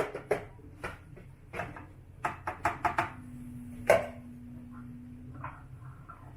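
Knife chopping on a cutting board: a run of sharp knocks, several a second with short pauses, the loudest about four seconds in. A steady low hum sounds underneath for about two seconds around the middle.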